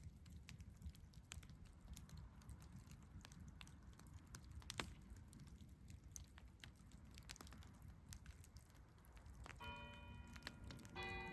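Campfire crackling faintly over a low rumble, with scattered sharp pops. About two seconds before the end, bell-like ringing tones come in, several notes at once, and are struck again near the end.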